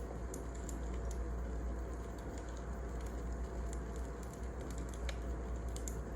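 Wood fire crackling: scattered, irregular sharp snaps over a steady low rumble.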